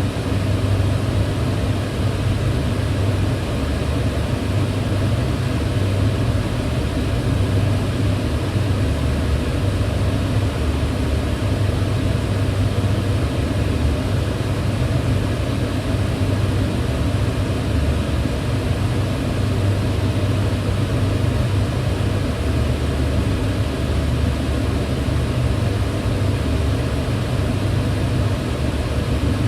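Kitchen range hood fan running steadily: a constant low hum with an even whoosh of air above it.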